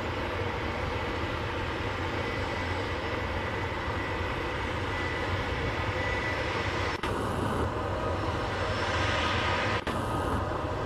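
Jet engines of a Boeing 767-200F freighter running at low power while taxiing: a steady rumble with a thin, steady high whine, broken by two very brief dropouts.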